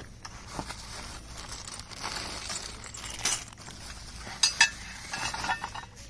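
Metal parts of an aluminium chainsaw mill clinking and knocking as they are unpacked, over a rustle of plastic packaging. The sharpest clinks come about three seconds in and a pair just after four and a half seconds.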